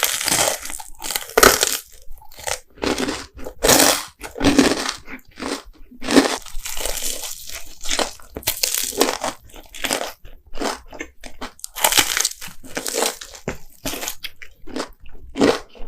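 Close-miked crunchy bites and chewing of food, in many irregular bursts with short pauses between them.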